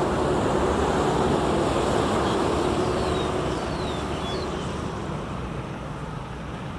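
A motor vehicle going by, its steady engine and road noise fading away over the second half, with a few short high chirps in the middle.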